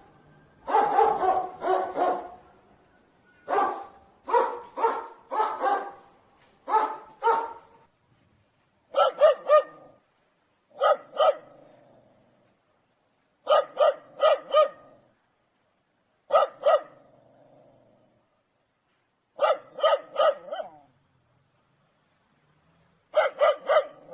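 A dog barking loudly in quick bursts of two to four barks, with pauses of a second or two between bursts. About nine seconds in the barks change in tone and become sharper and more evenly spaced.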